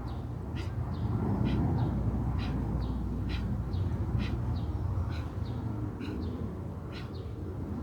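Birds chirping in short repeated calls, about one or two a second, over a steady low rumble.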